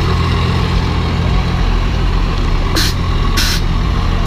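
Diesel pickup truck engine running steadily, with three short bursts of hiss a little over halfway through.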